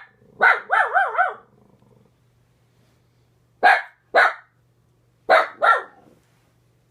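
Italian greyhound alarm-barking at someone seen outside: a quick wavering run of barks about half a second in, then two pairs of sharp barks.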